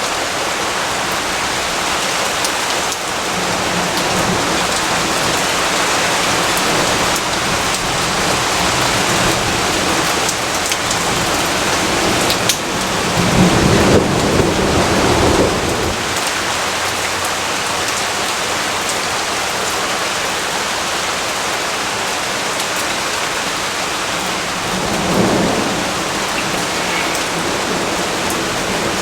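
Steady heavy rain falling, with a low rumble of thunder swelling up about halfway through and a shorter, fainter rumble near the end.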